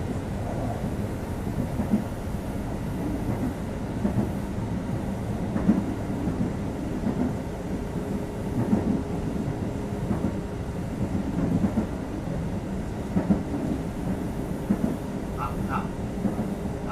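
Kintetsu 2430 series electric train's running sound heard inside the car: a steady rumble with regular clacks of the wheels over rail joints. About halfway a steady tone comes in and grows. Near the end come brief squeals as the train slows for its next stop.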